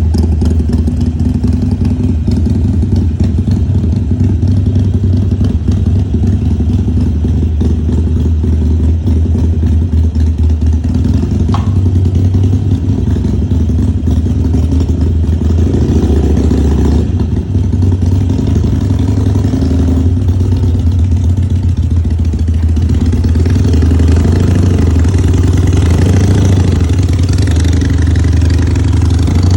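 Harley-Davidson Sportster's V-twin engine running steadily with a low rumble, its note rising and falling a few times in the second half.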